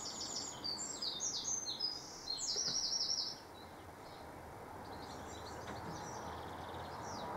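A songbird singing: quick, high, repeated chirping phrases for the first three seconds or so, then fainter song, over a low steady background hum.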